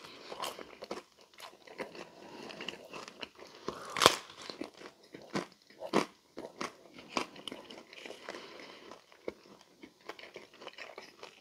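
Close-up mouth sounds of someone chewing a Pizza Hut pepperoni lovers Melt, a folded crisp pizza crust: irregular short clicks and smacks, with one louder, sharper crack about four seconds in.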